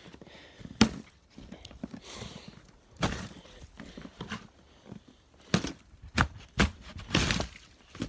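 Irregular footsteps with scuffs and thuds, spaced unevenly, about one every second or so. Near the end there is a longer scraping step.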